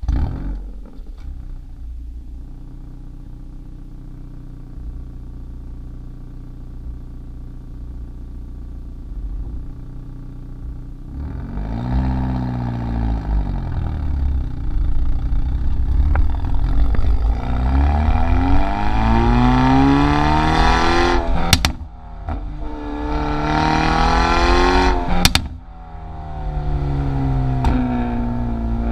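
Hyundai i30 N's turbocharged 2.0-litre four-cylinder idling steadily for about ten seconds, then revved repeatedly with the pitch rising and falling. Twice the throttle is snapped shut at high revs and the exhaust gives sharp pops and cracks on the overrun, before it drops back toward idle.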